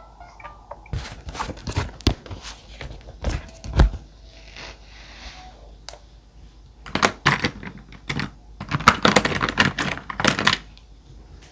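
Journaling supplies handled on a desk: scattered knocks, clicks and taps in two busy clusters, with a soft paper rustle about five seconds in.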